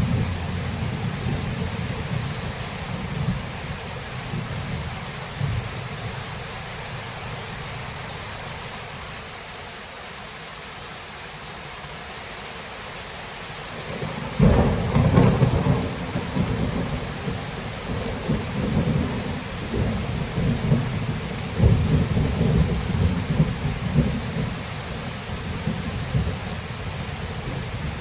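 Steady rain falling through a thunderstorm, with thunder rumbling. The rumble fades away over the first few seconds, then about halfway through a louder thunderclap breaks and rolls on in waves to the end.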